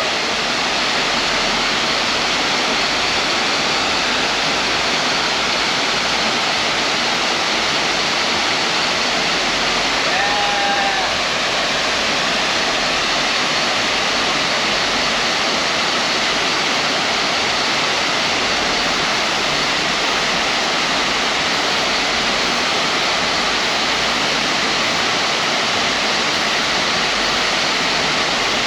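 A tall waterfall's falling water making a steady, dense rushing noise. A short whistle-like note is heard faintly about ten seconds in.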